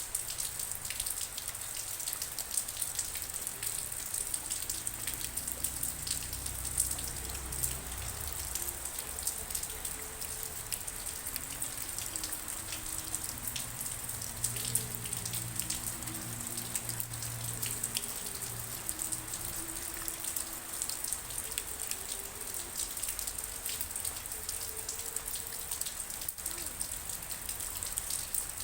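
Steady rain falling, with many close individual drops striking a surface over a constant hiss.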